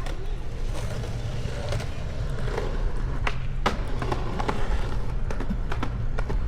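Bicycle ride with tyres rolling over pavement: a steady low rumble of road and wind noise on the microphone, with scattered clicks and rattles.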